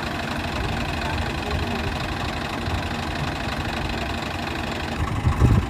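Diesel tractor engine running steadily with a low, knocking chug, with a brief louder burst near the end.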